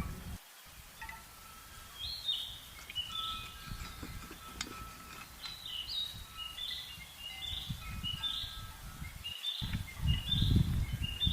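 A bird calling over and over, short high falling notes about twice a second, starting a few seconds in. Low rumbling rises under it near the end.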